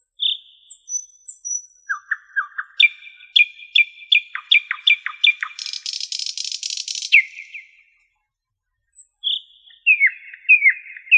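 A songbird singing a rapid run of chirps and downward-slurred whistles that turns into a buzzy trill. It pauses briefly past the halfway point, then starts a new phrase.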